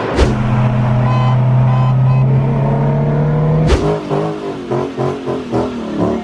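Car engine running while driving, a steady low drone. About two-thirds of the way through there is a sharp click, after which the pitch wavers and pulses.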